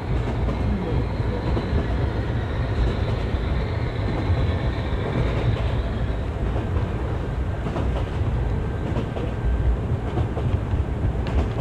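Model train rolling along the layout's track, heard from a camera riding on it: a steady low rumble of wheels and motor, with faint clicks from the rails.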